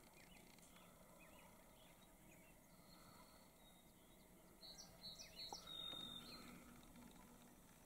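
Near silence: faint outdoor background hiss, with a short run of faint, high bird chirps a little past the middle.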